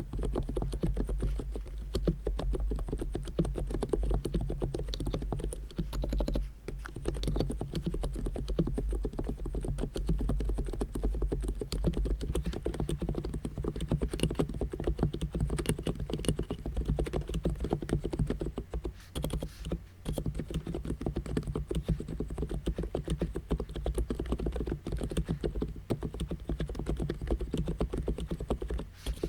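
Abko K990 v3 capacitive (non-contact) keyboard being typed on steadily and fast, a continuous run of key clicks with short pauses a few times.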